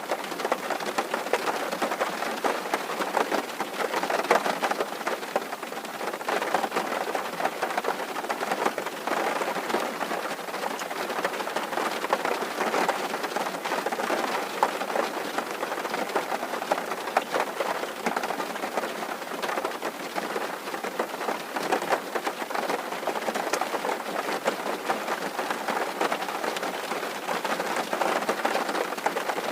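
Steady rain drumming on a tin roof, a dense patter of many fine drop hits.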